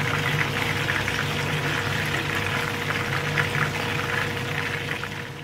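Chicken pieces sizzling and crackling in hot oil in a frying pan, over a steady low hum. The sizzle fades a little near the end.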